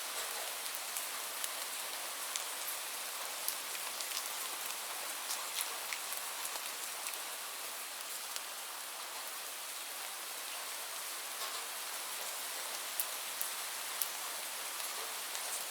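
Steady rain falling, an even hiss with scattered sharper drop ticks landing close by.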